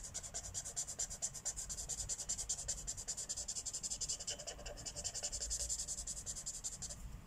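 Marker tip scribbling back and forth on paper in rapid, even strokes, several a second, filling in an area of colour; the strokes stop shortly before the end.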